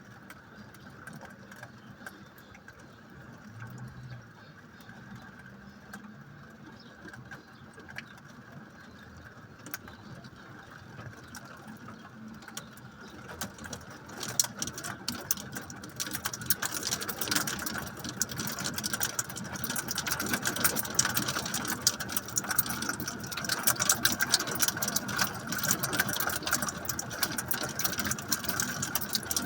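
Rain with small hail pattering on a surface, light at first and growing much heavier about halfway through, dense with sharp ticks.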